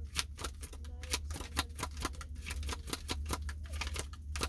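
A deck of oracle cards being shuffled by hand: a quick, irregular run of crisp clicks and slaps, several a second, over a steady low hum.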